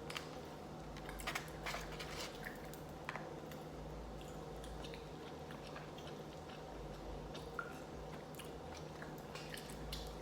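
A person chewing and eating short rib soup with rice close to the microphone, with scattered small clicks and smacks, over a low steady hum.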